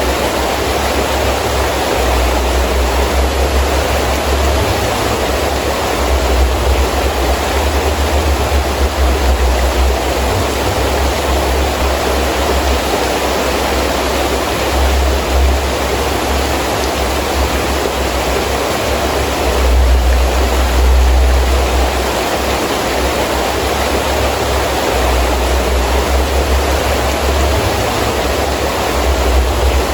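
Heavy rain falling in a steady hiss, with a low rumble of wind gusts that swells and drops every few seconds.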